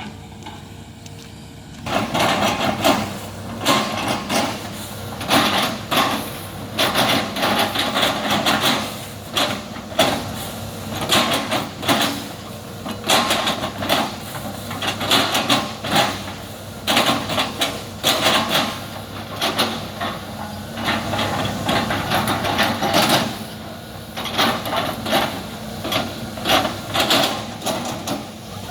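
Excavator engine running, joined about two seconds in by irregular loud crunching and cracking as oil palm trunks are broken and chopped.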